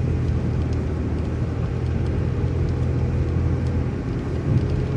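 City transit bus driving along, heard from inside: a steady low rumble of engine and tyres with a faint hum above it and a few light ticks.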